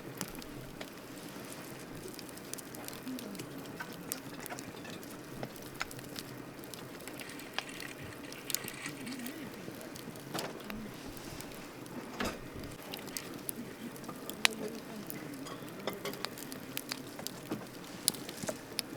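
Wood campfire burning: a steady low hiss with irregular sharp crackles and pops from the burning wood.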